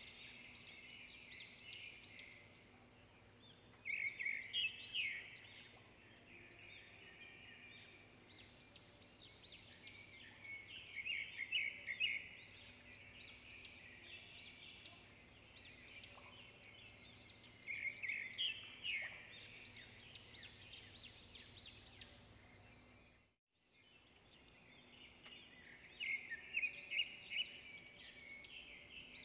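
Birdsong: a small songbird singing repeated bursts of quick chirping phrases every several seconds, over a faint steady hum. The sound drops out for a moment about three-quarters of the way through.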